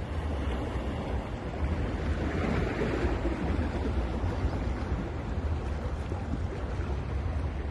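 Ocean surf on a beach: a wave breaks and washes in, swelling about two seconds in and easing off after, over a steady low rumble.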